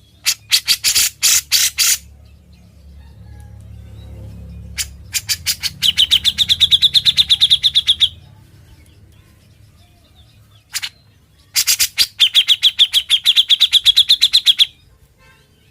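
Grey-cheeked bulbul (cucak jenggot) singing in its rapid 'ngebren' style. A short stuttering run of sharp notes is followed by two phrases of fast repeated notes, each about three seconds long, that settle into a quick, even trill.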